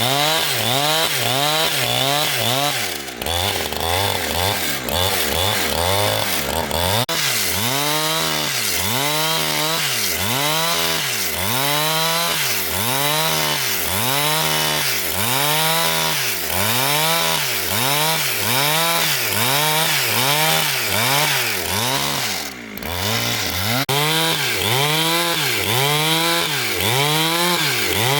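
Chainsaw engine running hard while sawing wood, its pitch rising and falling in a steady rhythm about once a second. For a few seconds near the start it holds a lower, steadier pitch, and it dips briefly about three-quarters of the way through.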